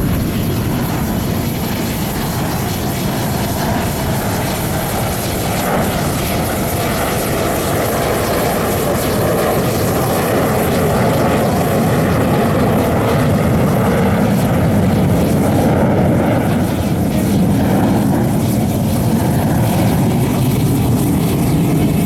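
Jet engine noise from military fighter jets flying an aerobatic display: a steady noise that grows louder about halfway through and stays up.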